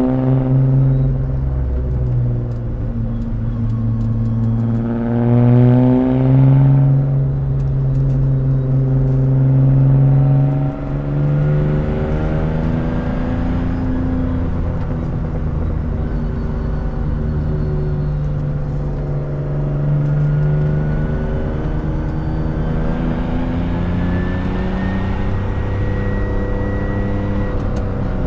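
BMW E36 328's straight-six engine and loud exhaust heard from inside the cabin under acceleration, the revs climbing and falling twice in the first several seconds, then settling into steadier running.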